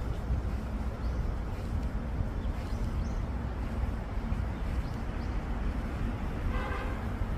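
Small birds chirping faintly and sparsely over a steady low rumble, with one louder call about six and a half seconds in.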